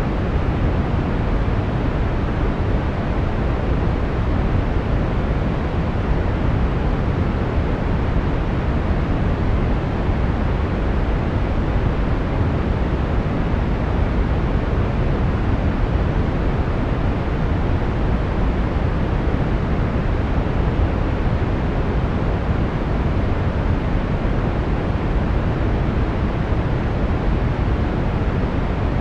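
Steady brown noise: an even, deep rushing hiss, strongest in the bass and darker than white noise, with no change in level.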